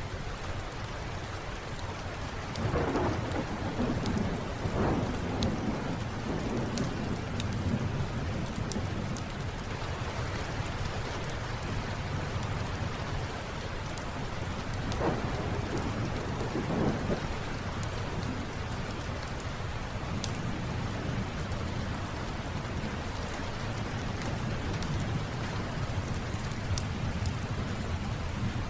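Steady rain falling, with low rolling thunder that swells a few seconds in and again about halfway through. Scattered sharp crackles from a wood fire in a fireplace sit on top.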